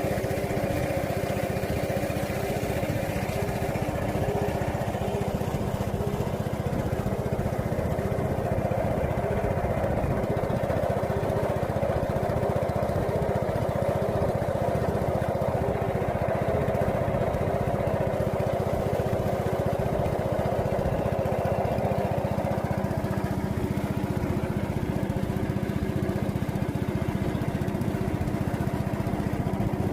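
A small engine running steadily at an even speed, a constant hum with no revving.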